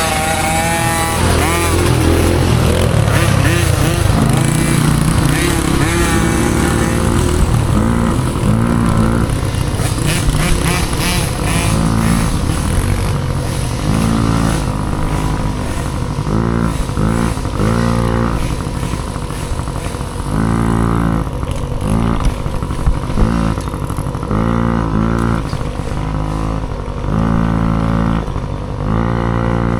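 Dirt bike engine revving hard in a race, its pitch climbing and dropping over and over as the throttle is opened and shut. From about halfway on it comes as quick short rises every second or two.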